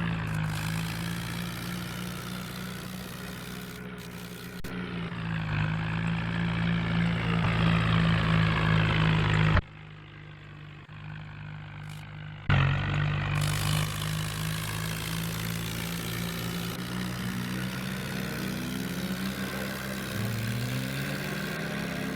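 HMT 5911 tractor engine running steadily with a low, even drone. It drops away abruptly for about three seconds in the middle, then comes back, and the engine speed rises near the end.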